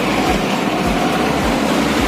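Motorcycle riding noise, a steady rush of engine, road and wind, with a regular low thump about twice a second.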